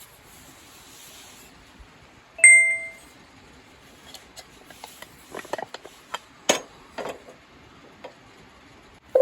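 A single metallic ding about two and a half seconds in, ringing briefly, followed by a scatter of small clicks and knocks, the sharpest a little over six seconds in.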